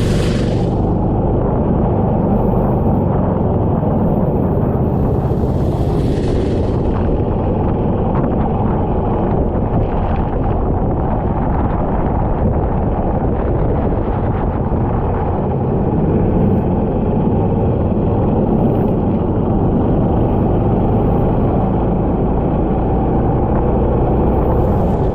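Go-kart engine running continuously at speed, recorded on board. A brief rush of hiss comes about six seconds in.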